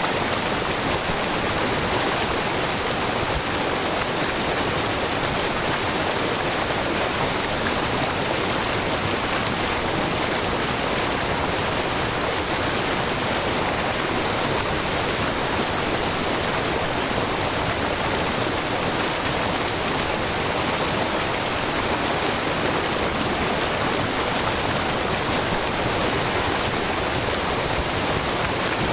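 Steady, even rushing of water from a wide, low waterfall, groundwater spilling in many thin streams over a rock face about 3 m high and 70 m across, with no change in level throughout.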